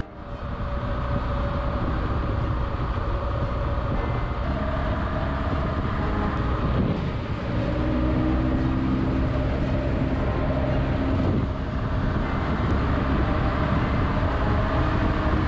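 BMW R1200GS motorcycle engine running steadily under way, with wind and road noise, dipping briefly twice.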